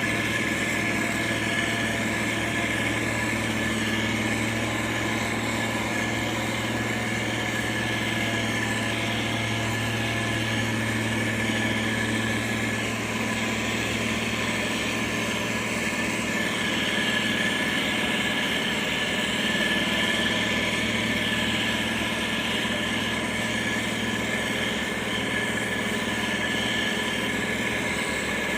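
Heavy road-building machine's diesel engine running steadily, a constant low engine hum with a steady high-pitched whine on top.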